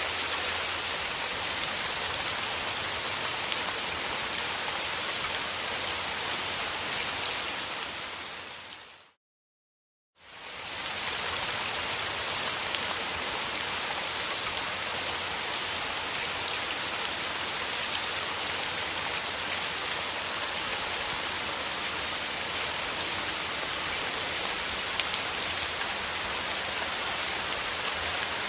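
Steady rain falling, an even hiss with scattered drop ticks. About eight seconds in it fades out to a second of silence, then fades back in.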